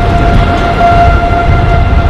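Tornado warning siren holding one steady tone, under heavy wind rumble buffeting the microphone.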